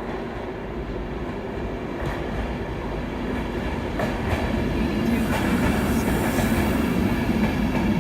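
A train running on the rails, growing steadily louder, with a few sharp clicks from the wheels.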